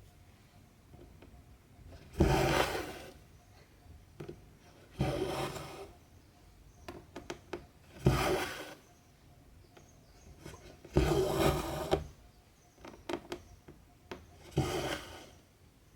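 Cotton embroidery thread drawn through 14-count Aida cross-stitch fabric: five rasping pulls, about one every three seconds, with small clicks of the needle piercing the cloth between them.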